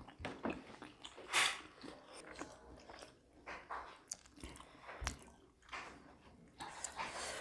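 People chewing and biting food close to the microphone, with scattered short crunches and clicks, one sharper click about five seconds in.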